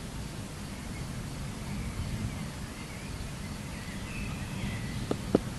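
Birds chirping faintly over a steady low rumble, with two sharp clicks near the end.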